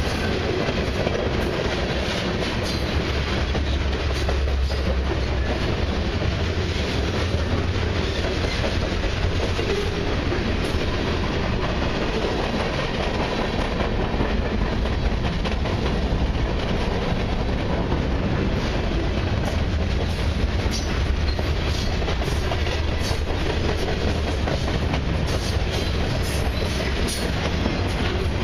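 Freight train cars (autoracks, boxcars and covered hoppers) rolling past in a long unbroken stream: a steady low rumble of steel wheels on rail, with frequent small clicks throughout.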